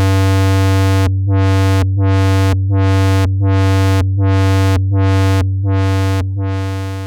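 Moog Werkstatt-01 analog synthesizer playing one low note, retriggered about eight times at a steady pace. Each time the brightness drops out and then sweeps back up: the envelope generator is modulating the filter cutoff with inverted polarity. The note fades away near the end.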